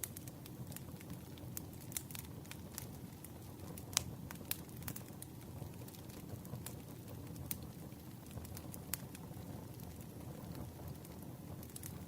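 Campfire burning with a steady low hiss and irregular sharp crackles and pops from the wood, one louder pop about four seconds in.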